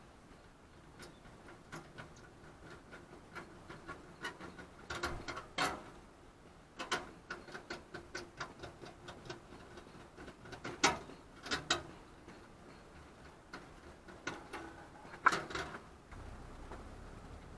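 Irregular light clicks and knocks of hard objects being handled, with a few louder knocks about five, eleven and fifteen seconds in.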